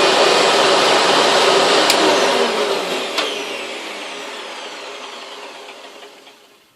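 Hoover Legacy Supreme upright vacuum cleaner running, then winding down after being switched off. Its motor falls in pitch and fades away over about four seconds, with a couple of sharp ticks along the way.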